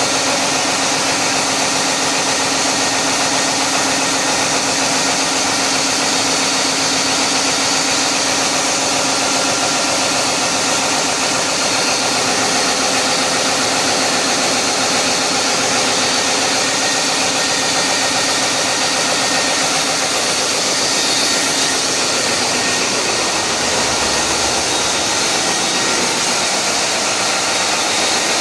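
Caterpillar 3516 V16 diesel engine running steadily, a dense, even engine noise with a constant pitch throughout.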